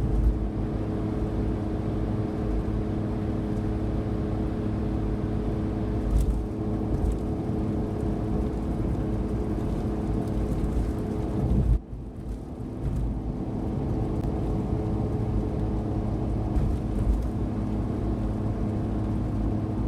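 Suzuki Every van's 660 cc three-cylinder engine and road noise at highway speed, heard inside the cabin: a steady drone with a few held engine tones over low rumble. About twelve seconds in the sound briefly drops away, then picks up again.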